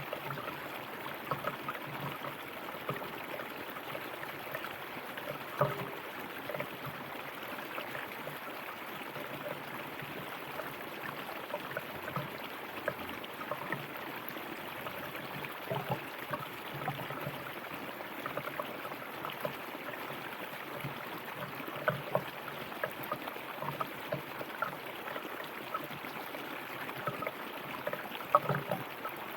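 River water flowing steadily over stones, a continuous rushing with many small splashes and gurgles scattered through it.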